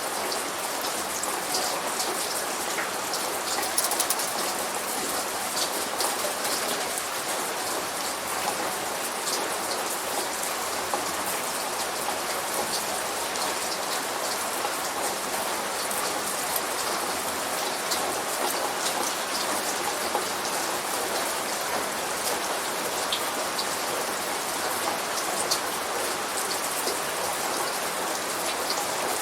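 Steady light rain falling, with many small drops pattering close by.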